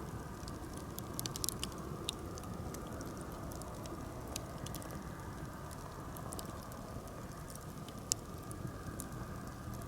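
Birch-wood campfire crackling: scattered sharp snaps and pops over a steady low background noise, with one louder pop about eight seconds in.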